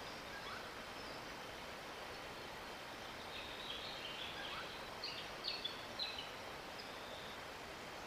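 Bird calls: a run of short, high chirps starting about three seconds in, with a few sharper notes just after the middle, over a steady outdoor hiss.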